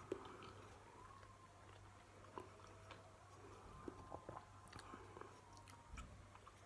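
Faint chewing and small mouth clicks as a person tastes food with hot sauce, over a low steady hum.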